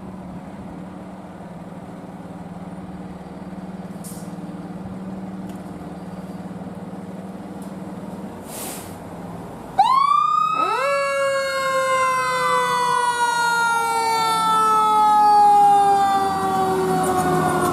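Steady low hum of a vehicle engine and street noise, then about ten seconds in an emergency vehicle's siren starts loudly: a quick rise in pitch followed by a long, slowly falling wail, with other siren glides crossing it.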